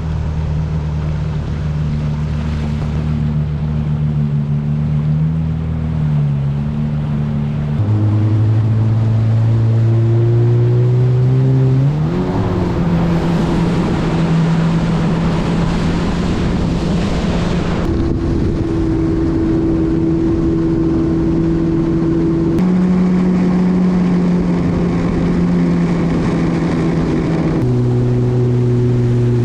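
Personal watercraft (jet ski) engines running under way across the water, holding steady at one speed and then another, with a rise in pitch about twelve seconds in as the throttle opens, and a rush of water and wind noise for a few seconds after it.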